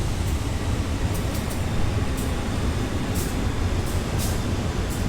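Passenger train running: a steady low rumble with short, irregular clicks and rattles over it.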